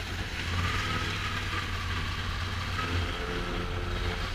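Kawasaki Ninja 400's parallel-twin engine running steadily: a low constant hum with a faint high whine over it.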